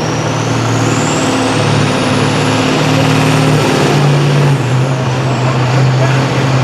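Competition pulling tractor's engine running hard under load, with a high turbocharger whine that climbs for the first few seconds and then eases off.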